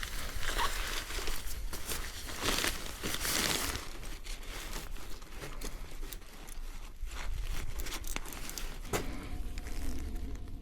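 A tarp being handled: the fabric rustles and crinkles in irregular bursts as it is unpacked and spread out, with a few sharp knocks.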